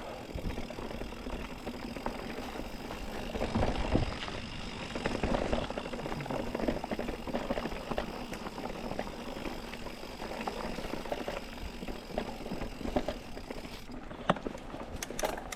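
Mountain bike riding over dirt singletrack: tyres rolling on the trail and the bike's chain and frame rattling over bumps, with a few sharper clicks near the end.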